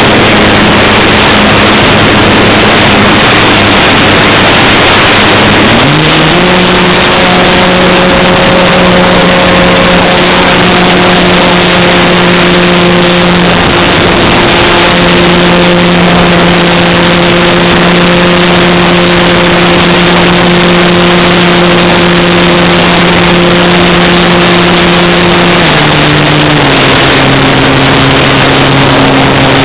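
Model Cessna 182's motor and propeller running, its tone stepping up in pitch about six seconds in as the throttle opens, holding, then dropping again near the end, over a loud rushing hiss.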